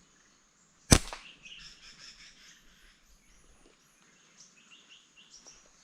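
A single sharp slingshot snap about a second in, followed by faint bird chirps.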